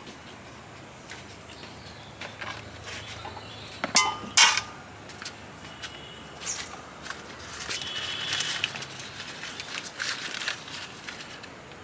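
Scattered clicks and knocks of things being handled, with two sharp, louder knocks about four seconds in.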